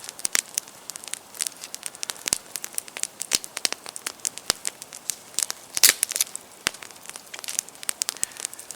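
Wood campfire crackling, with dense, irregular sharp pops and snaps, one louder pop about six seconds in.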